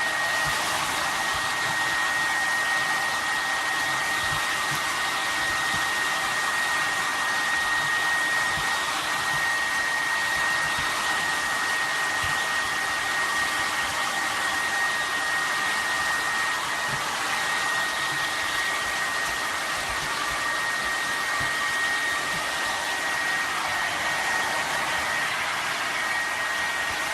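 Steady rushing noise with a thin, high, unchanging whine running through it, like an electric blower motor, starting abruptly at a cut.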